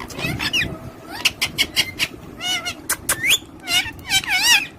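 Pet parrots calling: a quick run of sharp chirps, then several warbling whistled calls that rise and waver in pitch.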